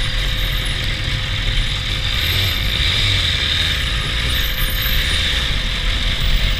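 BMW S1000RR sport bike under way: steady engine rumble mixed with a constant rush of wind and road noise.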